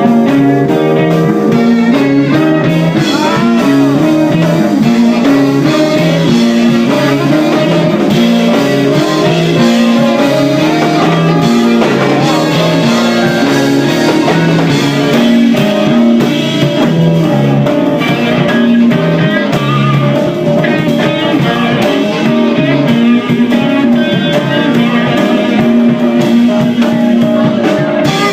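A live band playing a blues-rock groove: guitar and drum kit over a repeating bass line.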